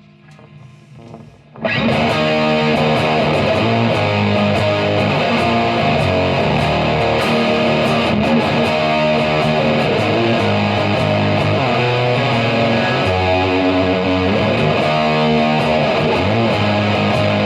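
Electric guitar with humbucker pickups played through a Third Eye overdrive pedal into a Marshall amp, giving a thick overdriven tone. After a quiet, faintly picked start, it comes in loud about a second and a half in with sustained overdriven chords and riffs that carry on without a break.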